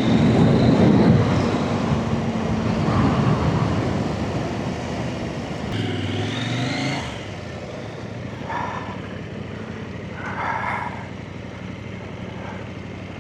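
Trail motorcycle engines running, with one revving briefly in a short rise about six seconds in; the sound drops sharply about seven seconds in, leaving a quieter steady engine idle.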